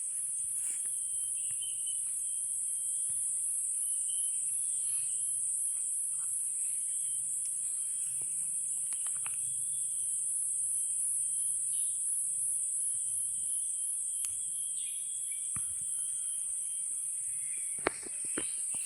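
Forest insects keeping up a steady, high-pitched shrill chorus with a slight even pulse, the kind made by cicadas or crickets. A few faint clicks sound through it, and a single sharp knock near the end.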